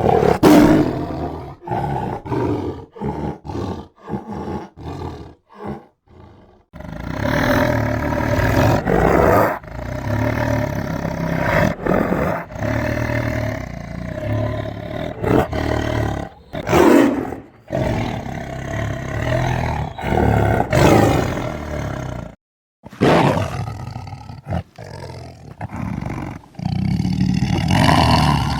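A tiger roaring and growling. It gives a quick series of short grunting roars over the first several seconds, then long drawn-out roars and growls, with a brief pause a little past the two-thirds mark before the roaring resumes.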